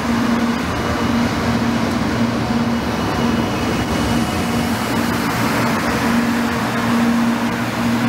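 Shinkansen 300 series bullet train rolling slowly past at an even pace. Its running gear makes a constant noise, with a steady hum underneath that neither rises nor falls.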